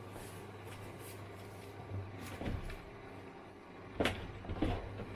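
Zanussi IZ 16 S washing machine running with a steady low hum, broken by a few sharp knocks about two and a half seconds in and a louder pair about four seconds in.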